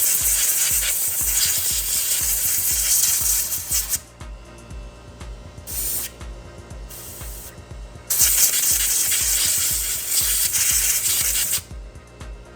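Compressed-air blow gun hissing in blasts, blowing built-up dust out of an opened orbital sander: a long blast, two short bursts, then another long blast that stops near the end.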